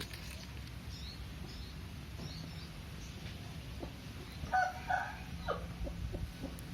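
Honda CB150R single-cylinder engine idling through a Creampie CR1 aftermarket exhaust, a steady low rumble. A chicken clucks a few times about halfway through.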